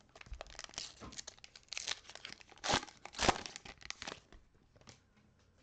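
Plastic wrapper of a trading-card pack being torn open and crinkled by hand, a burst of crackling that peaks about three seconds in and dies away after about four seconds.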